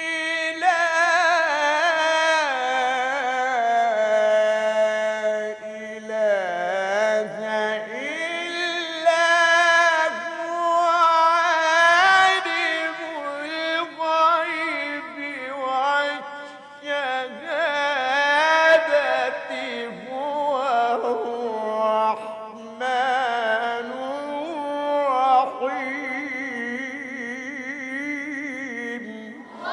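A male reciter chanting the Quran in long, drawn-out melodic phrases, his voice gliding and wavering through ornamented melismas with only brief dips between phrases.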